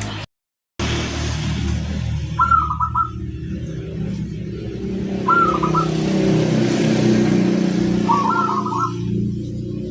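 Zebra dove (perkutut) cooing three short phrases a few seconds apart, over a loud steady low motor-like rumble. The sound cuts out completely for a moment near the start.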